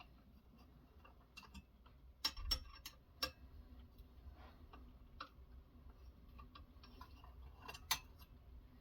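Light, irregular clicks and taps of knife-sharpening gear being handled, with a few sharper knocks a couple of seconds in and one near the end.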